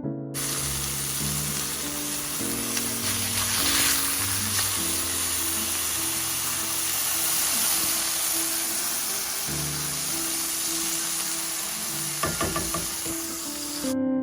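Food sizzling in a frying pan, an even hiss that cuts in and out abruptly, with a few clicks of a utensil near the end, over soft piano music.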